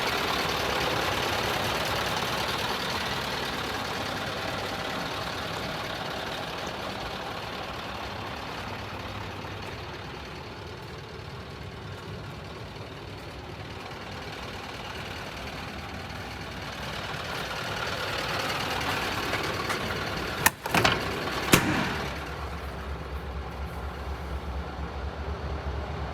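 Scania R560 truck's V8 diesel engine idling steadily, louder at first, fading, then swelling again. Two sharp knocks come about twenty seconds in, and a steady low hum follows.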